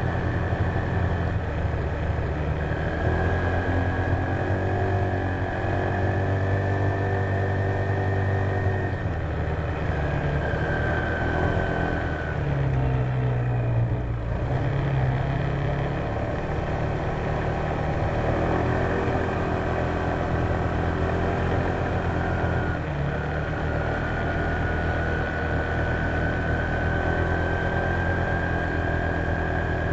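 Honda PCX150 scooter's single-cylinder engine running steadily on the move, its note shifting a few times as speed changes, with a thin high whine above it.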